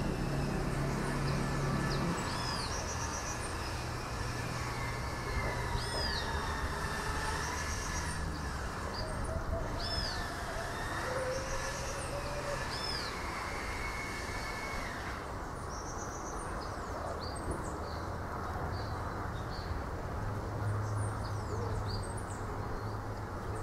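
Outdoor village ambience: a bird repeats a short, high, arched chirp every few seconds, with fainter chirps later, over a steady low hum and the rush of breeze.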